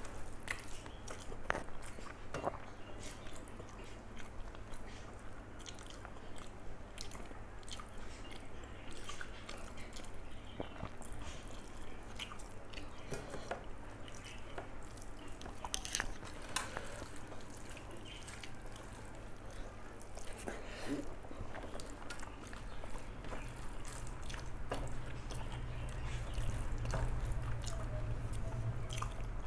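A person eating a rice meal: soft chewing and mouth sounds with scattered small clicks, over a steady low hum that grows louder near the end.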